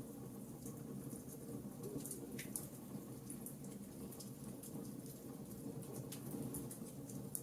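Wood fire in a fireplace crackling: irregular sharp pops and ticks over a steady low rumble.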